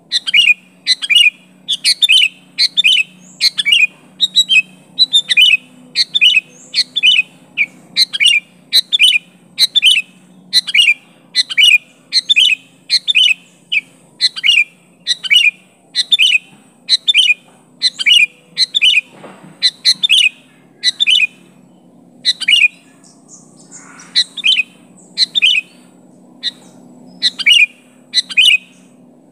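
Sooty-headed bulbul (kutilang) calling over and over in short, sharp, falling notes, about one and a half a second and often in pairs, with a brief break about three-quarters of the way through. A faint low hum runs underneath.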